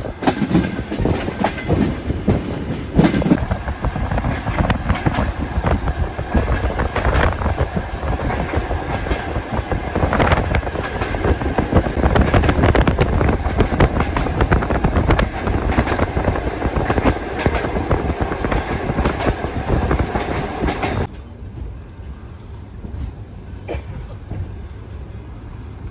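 Passenger train running along the track, heard from on board: a steady rumble crowded with rail clicks and rattles. About 21 seconds in it cuts off abruptly to a much quieter outdoor background.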